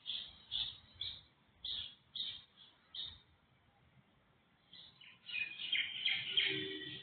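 Birds chirping: short single chirps about every half second, a lull, then denser, overlapping chirping near the end.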